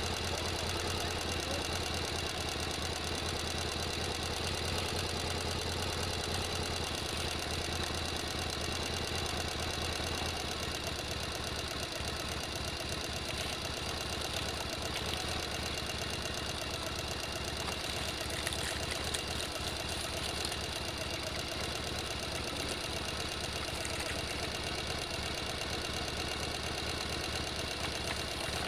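An engine idling steadily, with a fast, even knocking rhythm.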